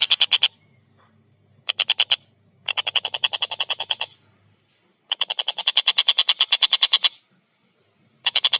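Tengkek buto (collared kingfisher) calling a rapid, harsh kek-kek-kek series of about a dozen notes a second. The calls come in several bursts with short pauses between them, and a new burst starts near the end.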